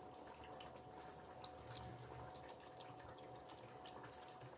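Near silence: room tone with a faint steady tone and a few scattered soft clicks.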